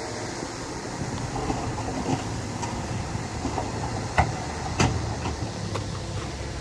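Small crawler bulldozer, a Komatsu D20A, with its diesel engine running steadily and its steel tracks clanking. There are a few sharp knocks in the second half; the two loudest come about half a second apart.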